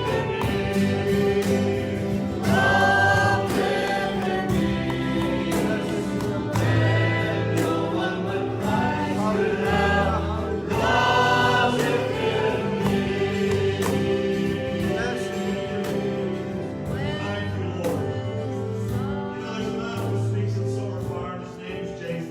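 Gospel-style worship song: a group of voices singing over a band, with steady bass notes and regular percussion hits.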